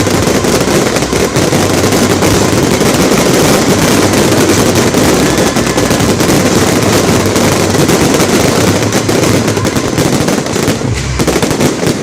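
Fireworks going off in a dense, continuous barrage of rapid bangs and crackles, thinning out near the end.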